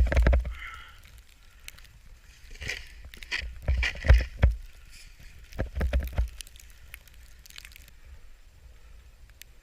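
Snow crunching and squishing in irregular bursts, strongest about three to six seconds in, with low rumbling buffets against the microphone.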